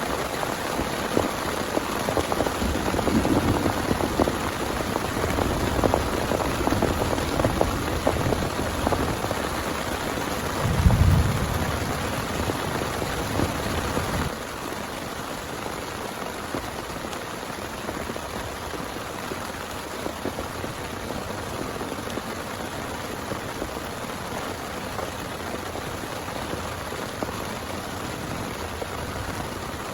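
Heavy rain falling, with many close drops striking a surface. About a third of the way in there is a brief low rumble. About halfway through the sound drops suddenly to a quieter, more even rain.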